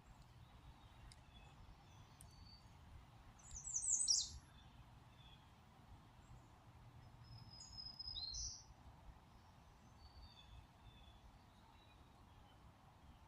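Birds calling. The two loudest calls come about four seconds in, a quick run of high descending notes, and about eight seconds in, a held whistle ending in a downward slur. Fainter chirps are scattered throughout, over a low steady rumble.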